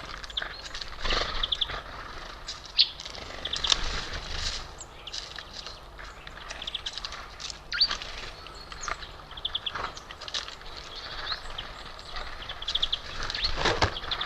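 Small songbirds at a feeder chirping and calling over one another, with several quick trills of rapidly repeated high notes. Scattered clicks and rustles run between the calls.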